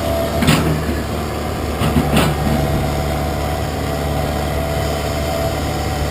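Track hoe's diesel engine running steadily with a low hum, with two sharp knocks about half a second and two seconds in.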